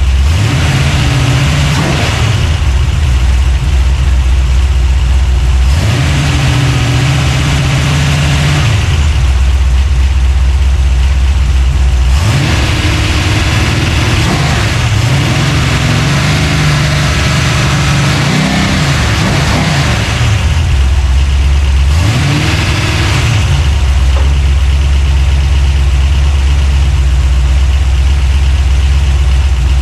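383 stroker small-block Chevy V8 running on a fresh build, its throttle worked by hand at the carburettor. The engine revs up and settles back to idle several times, then idles steadily near the end.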